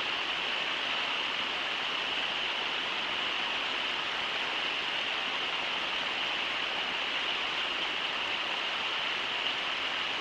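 Steady rush of river water pouring over Brooks Falls, an even hiss with no splashes or other events standing out.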